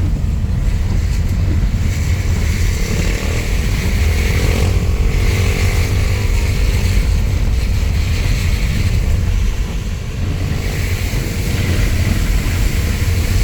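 Car driving in heavy rain, heard from inside the cabin: a steady low rumble of engine and road, with the hiss of rain and tyres on the wet road.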